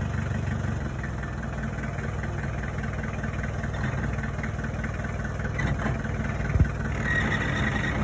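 Jeep engine running steadily at idle, with one short knock about six and a half seconds in.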